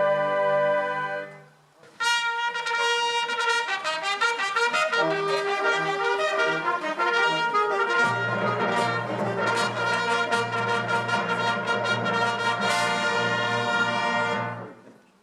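Brass band music. A held chord dies away about a second and a half in, then a new passage starts, with low brass joining about eight seconds in, and it fades out near the end.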